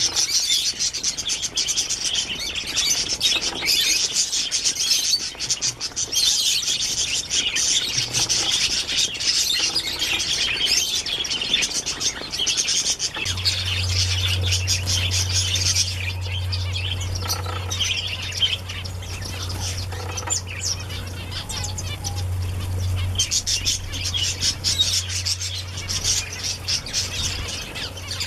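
Many small birds chirping busily and continuously in high, overlapping calls. About halfway through, a low steady hum joins them.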